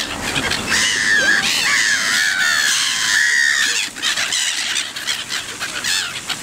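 A flock of birds calling over one another, many cries overlapping, with a run of louder calls from about one second in to nearly four seconds in.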